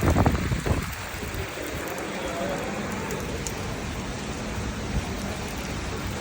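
Heavy rain falling steadily. A loud low rush at the start dies away within about the first second.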